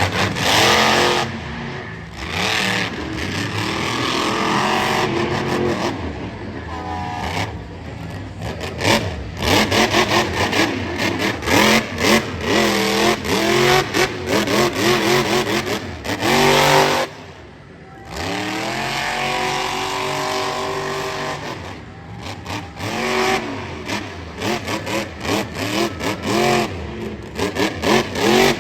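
Monster truck engine revving hard, its pitch climbing and falling with quick repeated stabs of throttle, easing off briefly about two-thirds of the way through before revving again.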